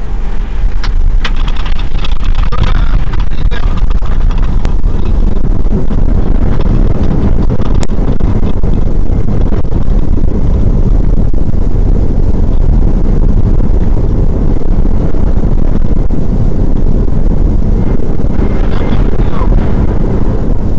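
Steady loud rumble of airflow and engines inside an Airbus A320 cockpit on approach to landing, with faint snatches of voice near the start and again near the end.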